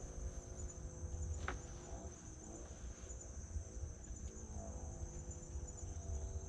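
Night insects, crickets or similar, trilling steadily at a high pitch, over a low rumble.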